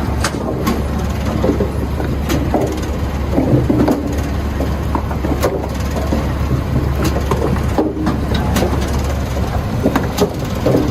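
Firewood-processing machinery running with a steady low hum, with irregular knocks and clatter of wood pieces striking each other and the machine.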